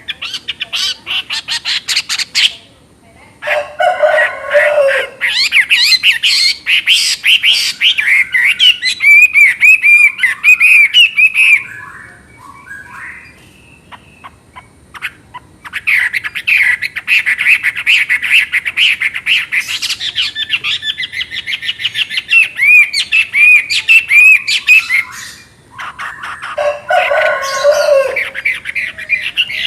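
Chinese hwamei singing a loud, fast, varied song of repeated whistled notes. The song breaks off in short pauses, with a quieter, softer stretch around 12 to 15 seconds in, and lower, harsher notes about 4 seconds in and again near the end.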